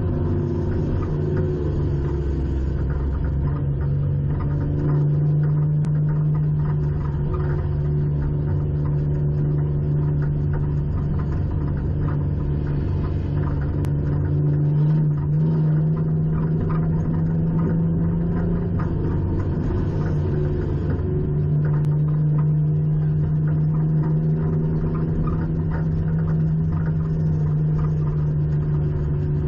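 Race car engine running at a steady, even pitch, with only slight dips now and then. It is heard from inside the stripped-out cabin, with a low rumble underneath.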